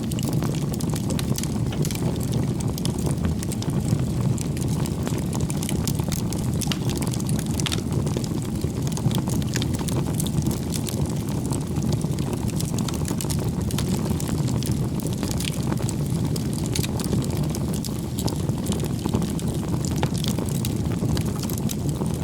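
Wood campfire burning: a steady low rush of flames with frequent small crackles and pops from the burning firewood.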